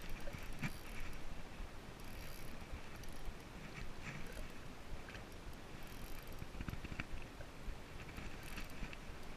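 Water splashing and lapping against a fishing kayak, with scattered small knocks and clicks from gear on the hull and a splashy rush about every two seconds.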